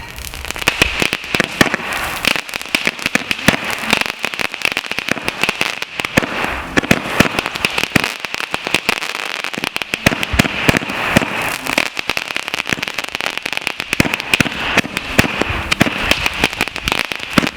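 Fireworks crackling: a dense, rapid, unbroken stream of sharp cracks and pops over a steady hiss.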